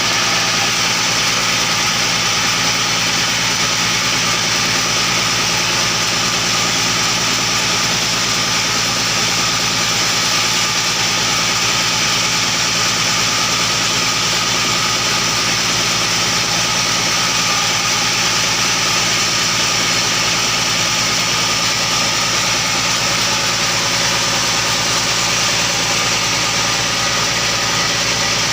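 Sawmill engine running at a steady, unchanging speed.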